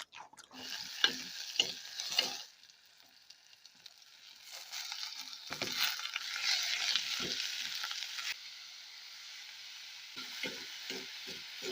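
Chopped banana stem frying in a hot pan, sizzling as it is stirred, with a utensil knocking and scraping against the pan. The sizzle drops out for a moment about two and a half seconds in, comes back louder for a few seconds, then dies down.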